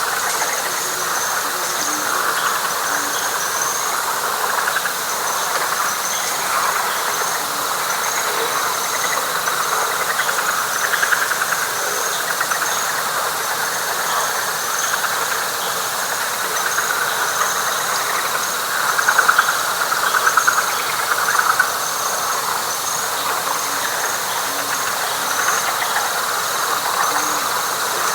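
Night chorus of frogs and insects in a wet pine flatwoods: many frogs calling at once in a dense, pulsing chorus, over a steady high insect trill and a faster stuttering higher insect chirring. The frog chorus swells louder for a few seconds around two-thirds of the way through.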